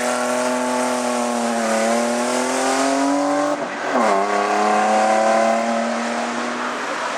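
Race car engine held at high revs under full throttle, its note sagging slightly and climbing again, with a quick gear change about three and a half seconds in before it carries on steadily.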